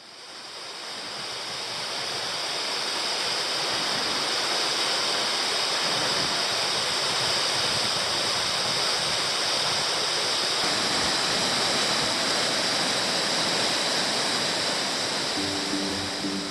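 Waterfall: a steady, even rush of falling water that fades in over the first few seconds. Near the end, plucked-string music, like a ukulele, starts over it.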